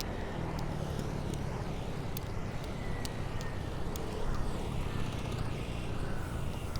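Steady rumble of wind and road noise from riding a bicycle on city streets, with traffic in the background and a few light ticks.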